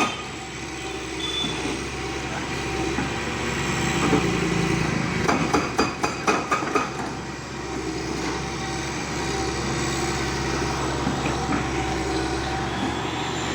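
Heavy machinery engine running steadily during demolition, with a cluster of rapid clanks and knocks about five to seven seconds in.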